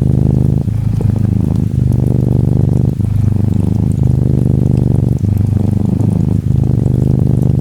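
Norwegian Forest Cat kitten purring close to the microphone, a steady low rumble that changes pitch about once a second as it switches between breathing in and breathing out.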